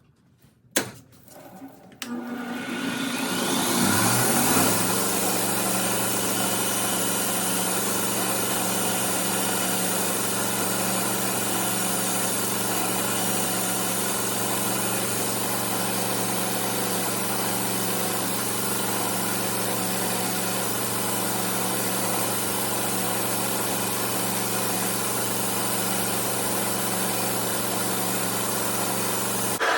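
Bench grinder fitted with a 2x36 multi-tool belt attachment switched on with a click, its motor spinning up over a couple of seconds and then running at a steady speed.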